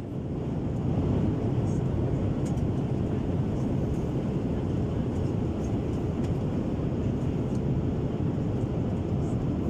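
Steady roar of a Boeing 787 airliner heard from inside the passenger cabin: engine and airflow noise, even and unchanging, with a few faint small ticks.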